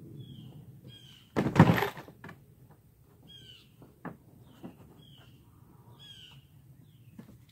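A bird chirping over and over in short falling chirps. About a second and a half in there is a brief loud clatter, the loudest sound here, with a few light knocks later.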